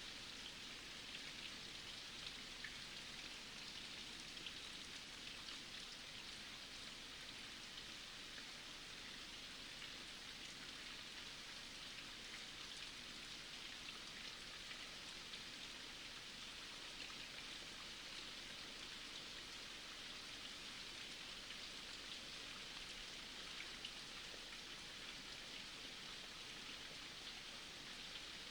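Rain falling steadily, an even hiss of many small drops.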